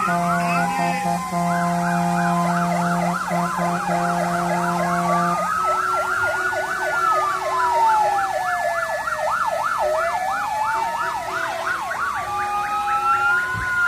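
Several fire-engine sirens sounding at once: fast yelps over a slow wail that rises and falls, with steady horn blasts underneath; the lowest horn cuts out about five and a half seconds in.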